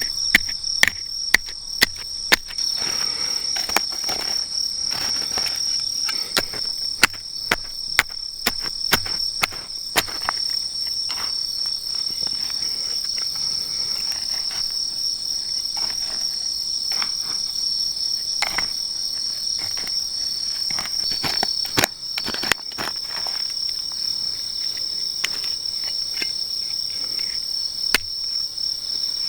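Crickets chirring in a steady, high-pitched continuous trill, with scattered sharp clicks and snaps, most frequent in the first few seconds.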